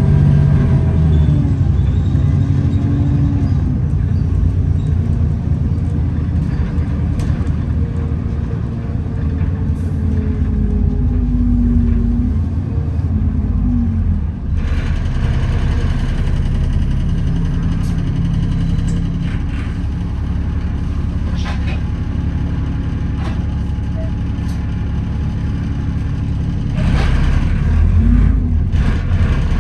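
On-board sound of an Alexander Dennis Enviro400 double-decker bus under way: a constant low engine and drivetrain rumble, with a whine that rises and falls in pitch through the first half as the bus speeds up and slows. Later a steadier hiss comes in with scattered rattles and knocks, louder near the end. The uploader calls the whine a 'hoover' noise and the knocks loud axles.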